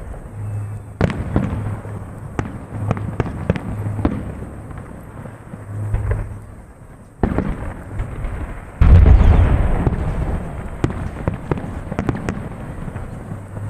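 Fireworks salute: a run of sharp aerial-shell bangs and crackles, with the loudest burst about nine seconds in, its rumble dying away over a second or so.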